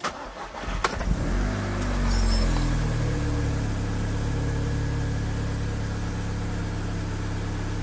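Audi S3 8P's 2.0-litre turbocharged four-cylinder engine is cranked over and catches about a second in. Its revs flare up and drop back, and it settles into a steady idle. This is a first start after an oil change, run to circulate the fresh oil.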